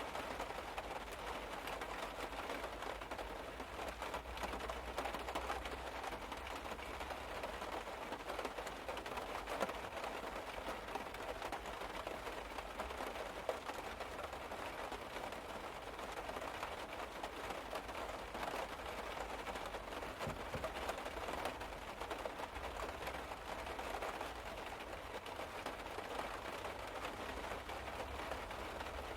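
Steady rain pattering on the car's roof and body, a dense unbroken patter of drops, with a low steady hum underneath.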